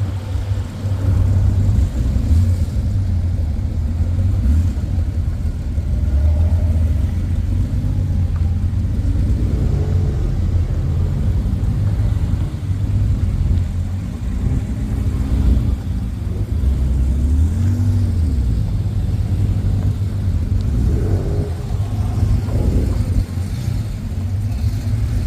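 Car engines of classic cars arriving and moving past, their pitch rising and falling several times as they rev and pass, over a constant low rumble.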